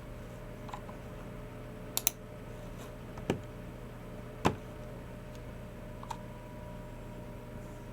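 A few scattered taps and clicks from a Logicool MX Keys Mini keyboard and Logicool G304 mouse, with no run of typing. There is a quick double click about two seconds in, then two heavier taps about a second apart, over a steady low hum.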